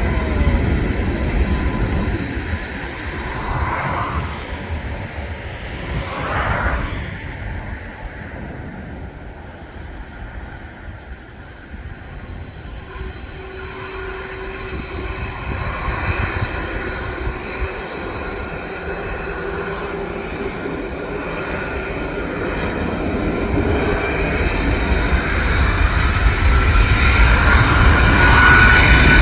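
Boeing 767-424ER jet engines running: the noise eases off, then builds steadily louder, with a rising whine over the last few seconds as the engines spool up.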